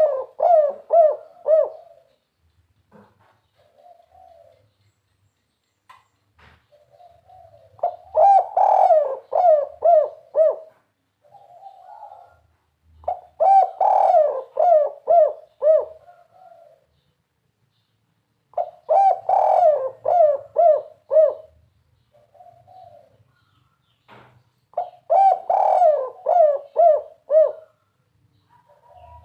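Spotted dove (tekukur) singing its 'kuk 3' cooing song: phrases of quick repeated coos, each about three seconds long, coming back about every five to six seconds, with a few softer coos between them.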